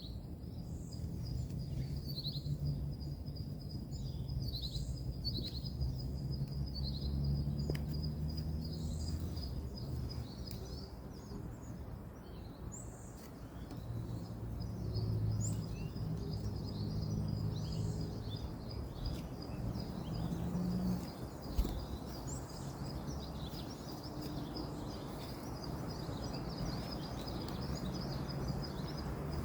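Outdoor ambience: a low rumble of distant road traffic, with small birds chirping over it.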